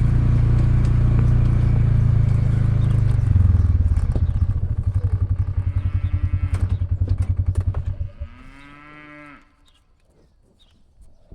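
ATV engine running, then settling to an even pulsing idle that cuts off about 8 seconds in. Cattle moo twice, once over the idle and once just after the engine stops.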